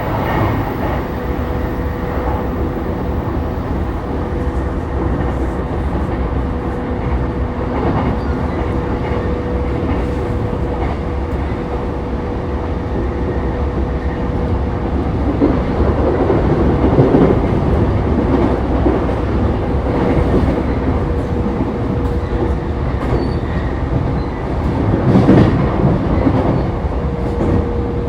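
Inside a JR East E233-3000 series electric train running at speed: a steady rumble of wheels on rail with a faint constant hum. The rumble swells louder and rattles twice, once around the middle and again near the end.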